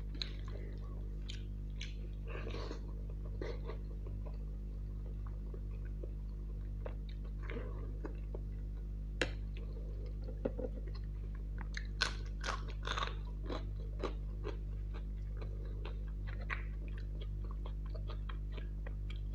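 Close-miked chewing of noodles, with a run of crisp crunching bites past the middle from biting into a raw long green chilli. A steady low hum runs underneath.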